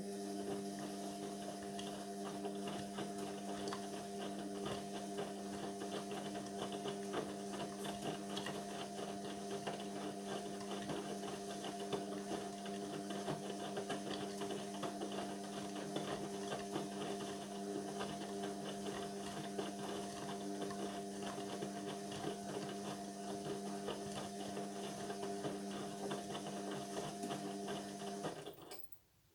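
Indesit washing machine's drain pump running with a steady hum and gurgling water, switching on suddenly and cutting out shortly before the end.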